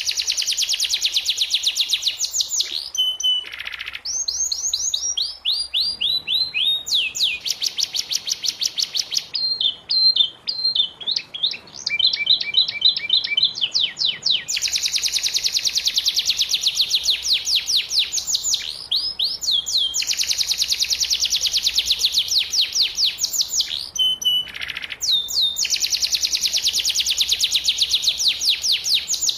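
Domestic canary singing long, fast trills of rapidly repeated high notes, broken by short pauses and a few slower runs of falling notes.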